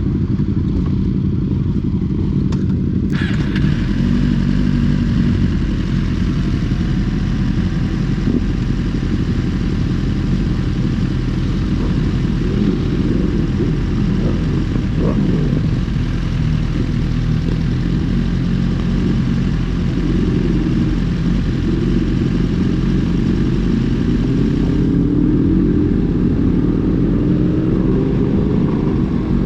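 Motorcycle engine running steadily, its pitch climbing near the end.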